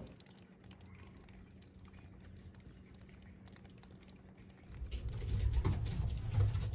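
Faint light ticks and scratching from pigeons in a loft nest box, then, about five seconds in, a pigeon's low pulsing cooing begins.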